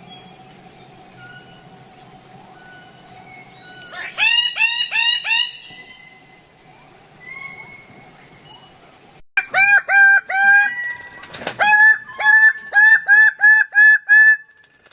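Bird of paradise calling: a quick run of about five loud, hooked notes, then after a pause a longer series of about a dozen. A steady high-pitched drone sounds underneath until about halfway through.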